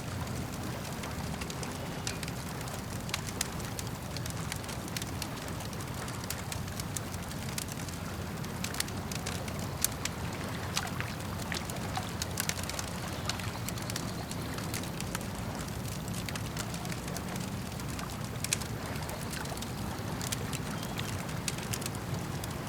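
Campfire burning steadily with irregular sharp crackles and pops from the burning wood, over a low rush of lapping lake water.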